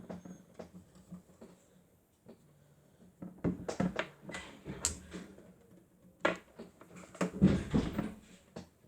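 Batteries clattering and rattling against the drum of a spinning toy Miele W1 washing machine, in two bursts of quick knocks, over the faint hum of its small motor.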